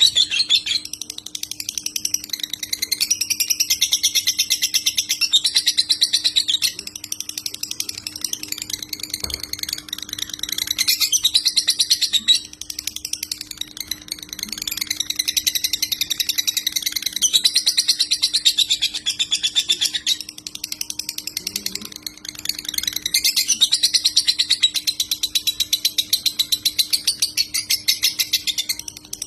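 Lovebird singing in long runs of rapid, high chattering, each lasting several seconds with short breaks between: the fast, continuous 'konslet' song that bird keepers prize. A faint steady hum lies under it.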